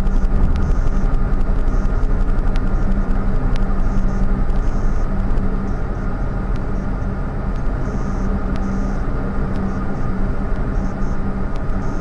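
Steady engine and road noise of a car on the move, heard from inside the vehicle, with a faint tick about once a second.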